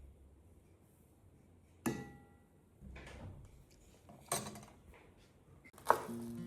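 Kitchen dishes and utensils being handled. A ringing clink comes about two seconds in, then scattered knocks, the loudest near the end.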